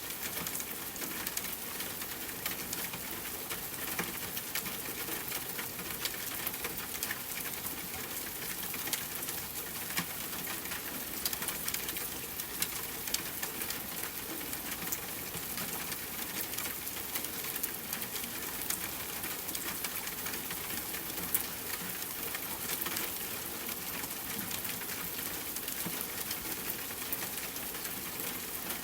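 Steady rainfall mixed with a crackling wood fire: an even wash of rain with frequent small crackles scattered through it.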